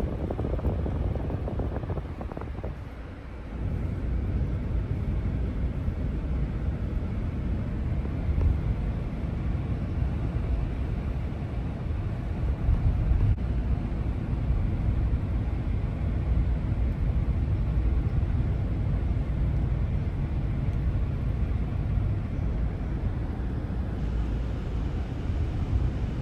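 Steady low rumble of road and engine noise from a 2024 Ram 1500 pickup with a Hemi V8, heard from inside the cab while driving.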